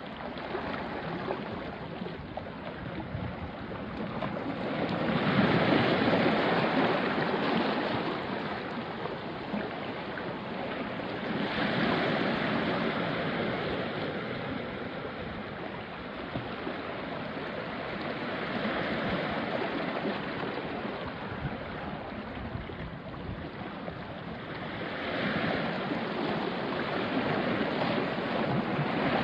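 Small sea waves washing onto a rocky shore, the wash swelling and easing about three times. A light breeze runs underneath.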